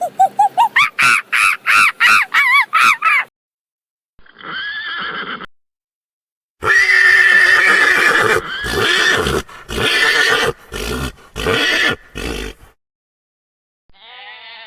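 Horse whinnying: a quavering call that climbs in pitch, then a short call about four seconds in, and a longer run of calls from about seven to twelve seconds.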